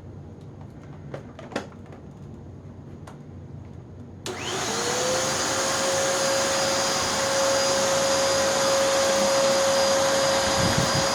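A few light clicks, then a Hoover NanoLite vacuum cleaner's motor switches on about four seconds in. Its whine rises quickly and settles into a steady high-pitched run, with the brush roll not spinning.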